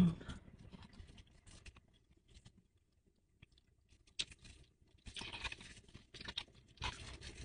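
Close-up chewing of a mouthful of crack conch, raw conch salad with mango: soft, wet chewing and crunching in irregular spurts, with a quiet stretch of a second or two in the middle. Near the end a plastic spoon scrapes in a foam cup.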